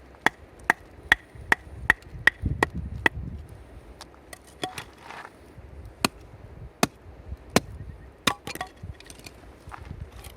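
Chopping with a blade: a run of sharp strikes, two or three a second for the first three seconds, then slower, about one a second.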